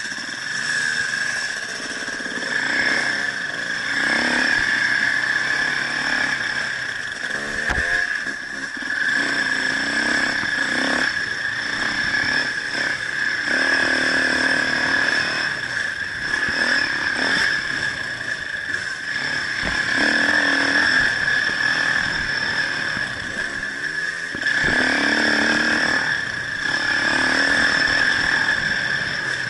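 A motor vehicle engine running, its pitch rising and falling repeatedly, under a steady high-pitched whine.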